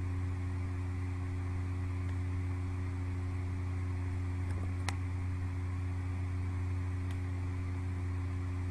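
Steady low hum with an even hiss behind it, unchanging throughout, with a few faint sharp clicks about halfway through and once more near the end.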